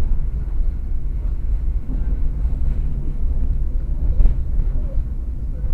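Moving train running, a steady low rumble heard from inside the carriage, with a short knock about four seconds in.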